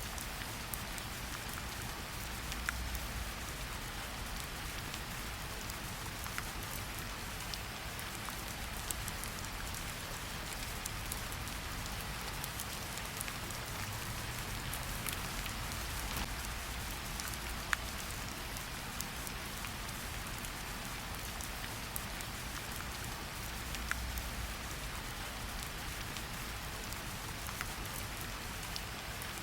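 Steady rain falling, an even hiss with scattered individual drops ticking, a few sharper drips standing out, and a faint low rumble that swells and fades.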